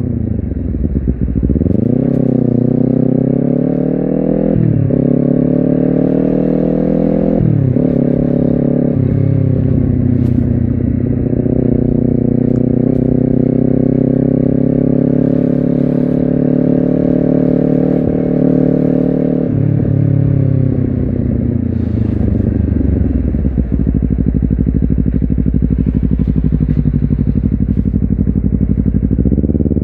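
Honda CBR250RR's parallel-twin engine pulling through the gears: the revs climb and drop back at each upshift, several times in the first nine seconds. It then holds a steady pitch for about ten seconds, and just before the twenty-second mark the revs fall away as the bike slows, settling into a low, steady run.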